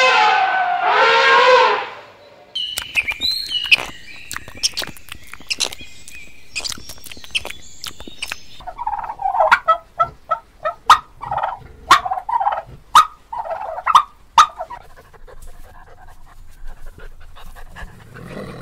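A sequence of different animal calls. A long drawn-out pitched call ends about two seconds in, then come high chirps mixed with sharp clicks, then a run of about a dozen short repeated calls, each under half a second, before it goes quieter near the end.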